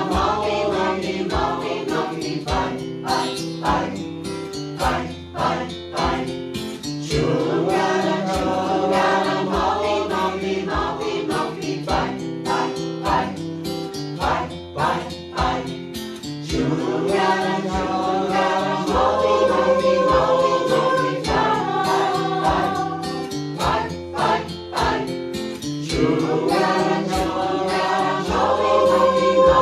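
Choir singing a chant in several overlapping voice parts over instrumental accompaniment with a steady pulsing beat.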